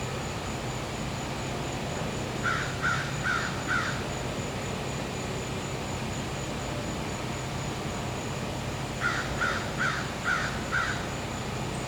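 A crow cawing in two series, four caws and then five about six seconds later. Under it run the steady hum of a gas-powered generator and a continuous high-pitched insect drone.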